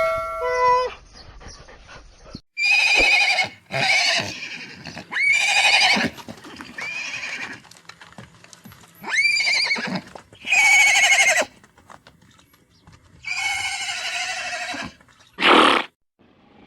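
Horse whinnying, about eight separate calls of a second or so each, several falling in pitch. A short ringing chime fades out in the first second.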